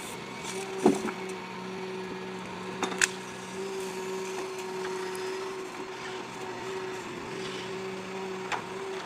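A heavy machine's engine running steadily at an even pitch, with three sharp cracks or knocks: about a second in, about three seconds in, and near the end.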